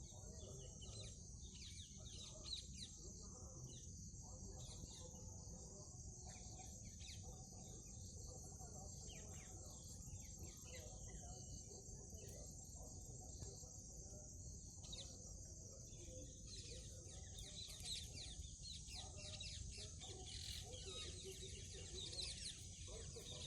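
Chickens clucking, faint, among many short high chirps that grow busier over the last several seconds, with a steady high-pitched hum underneath.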